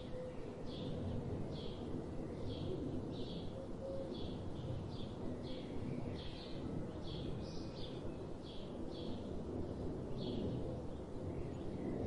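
A small bird calling repeatedly, short high chirps about twice a second, over a steady low rumble of background noise.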